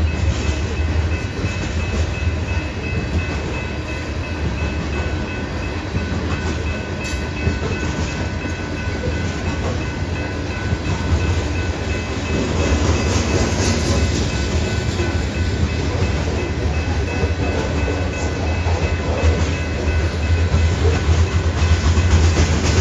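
Long BNSF freight train of grain hopper cars rolling past, a steady rumble with wheels clattering over the rail joints, growing a little louder about halfway through.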